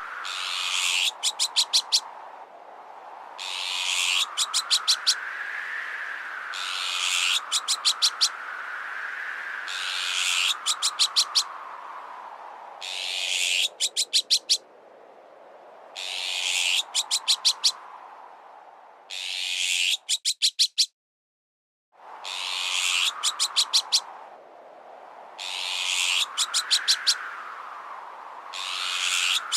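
Looped recording of azure-winged magpie alarm calls: a harsh rasp ending in a quick run of five or six sharp notes, repeating about every three seconds, over a slowly rising and falling whistling tone. The sound cuts out briefly about two-thirds of the way through.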